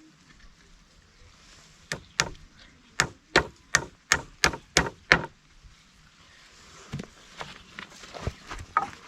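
A tool chopping into wood in a quick run of sharp blows, about a dozen over three seconds starting about two seconds in. A few lighter knocks follow near the end.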